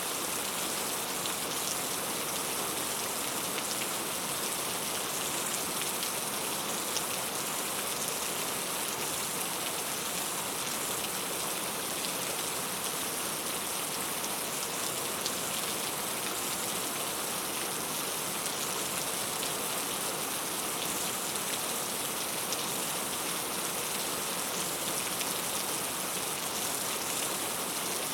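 Steady rain falling, an even hiss of many small drops pattering on a surface, with faint individual drop ticks throughout.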